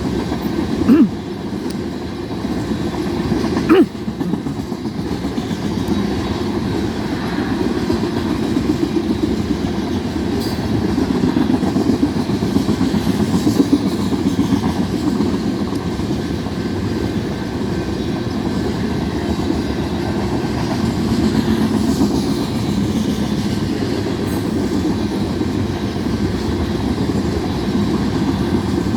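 BNSF unit tank car freight train rolling past, a steady rumble of the tank cars' wheels on the rails, with two sharp knocks about one and four seconds in.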